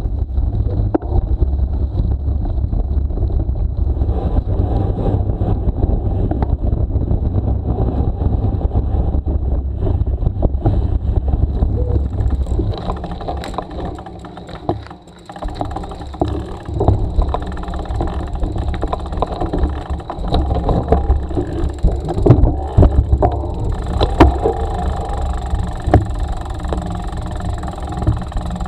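Steady low rumble of wind buffeting the microphone and tyres on the road during a bicycle ride, broken by frequent small clicks and rattles. The rumble eases briefly about halfway through.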